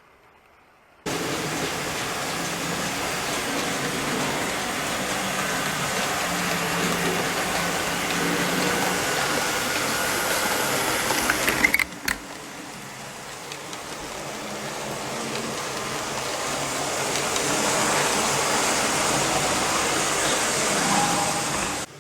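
00 gauge model train running on the layout track: an even whirring and rumbling of the small motor and wheels on the rails. It breaks off sharply with a click about halfway through, then builds up again as a train draws nearer.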